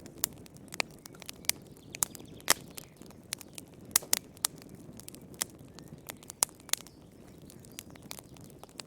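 Fire crackling in a fireplace: irregular sharp pops and snaps, a few louder ones about two and a half and four seconds in, over a low steady hiss of the flames.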